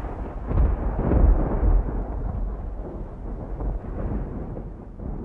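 Wind buffeting the microphone: a gusty, deep rumble, strongest about a second in, easing off toward the end.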